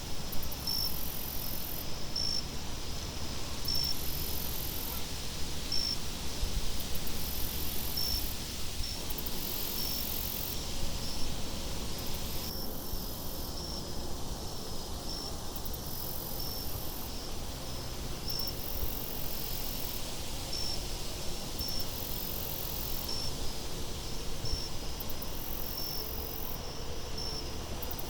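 Crickets chirping in a steady, even rhythm, with short chirps about once a second and a higher trill coming and going every couple of seconds, over a low wind rumble.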